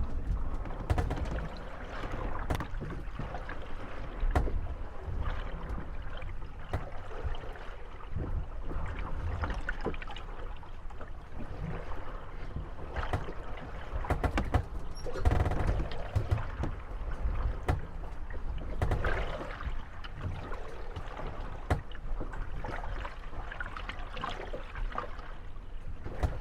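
Moored wooden gondolas rocking in the swell, bumping and creaking against each other with frequent irregular sharp knocks, over water lapping at the hulls.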